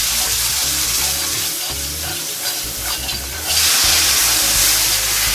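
Chicken broth sizzling as it is whisked into a hot brown roux to make gravy. The sizzle gets louder about three and a half seconds in.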